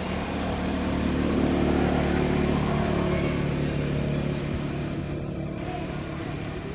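A motor engine running with a steady low hum that grows louder between one and three seconds in, then slowly fades, as a vehicle passing by.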